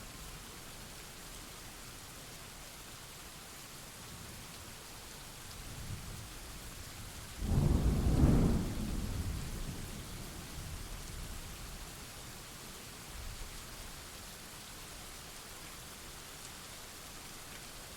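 Thunderstorm: steady rain hiss, with a thunderclap that breaks in suddenly a little before halfway and rumbles away over a few seconds. Fainter low thunder rumbles come just before it and again later.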